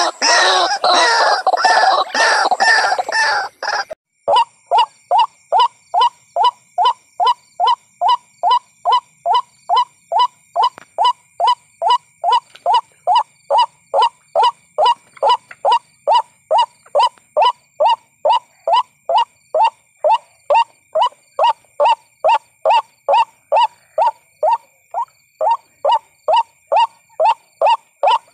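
White-breasted waterhen calls played as a bird-trapping lure. A dense jumble of overlapping calls for about four seconds, then, after a brief break, a steady monotonous series of single clipped notes, about two a second.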